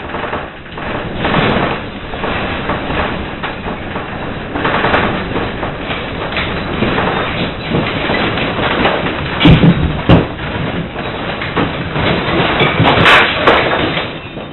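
Earthquake shaking a building: a continuous loud rattling and rumbling of doors, fixtures and contents, with heavier knocks about nine and a half and ten seconds in and again near the end.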